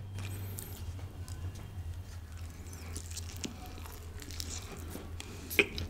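Faint close-up eating sounds: small wet clicks of biting and chewing a piece of chicken tikka quesadilla, with a sharper click near the end, over a low steady hum.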